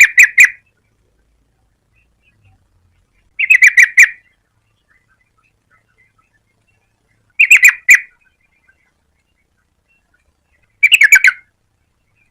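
Yellow-vented bulbul singing: short bubbly phrases of quick notes, each under a second long, repeated about every three and a half seconds with quiet gaps between.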